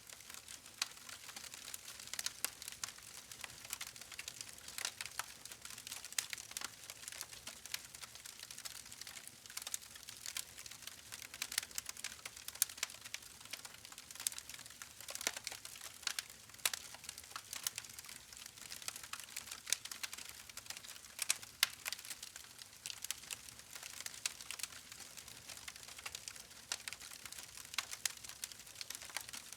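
Campfire burning with irregular sharp crackles and pops from the burning wood over a faint steady hiss.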